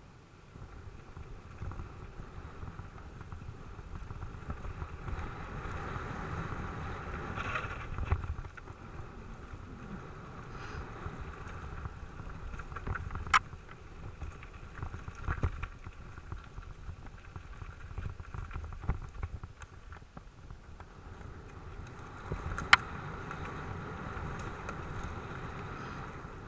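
Specialized Enduro mountain bike ridden over a dirt track: tyre rumble and wind noise that swell and ease, with a few sharp clacks from the bike, the loudest about halfway through and again near the end.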